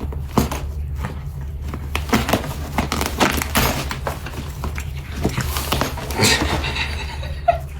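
Rustling and crackling with many short sharp clicks: a pet scratching at and chewing its torn-up tunnel, over a steady low hum. A brief higher-pitched sound comes near the end.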